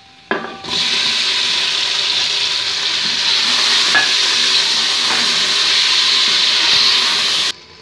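Tomato pieces hitting hot oil and fried onions in an aluminium pot, setting off a loud, steady sizzle as steam rises. The sizzle cuts off suddenly near the end.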